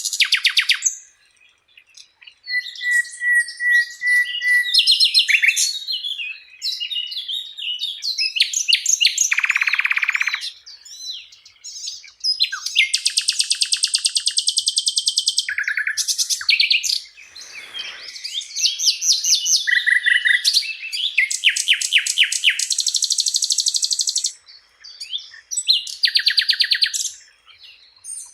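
Sikatan Londo flycatcher singing a long, varied song of rapid trills, buzzy rattles and clear whistled notes, phrase after phrase with short pauses between.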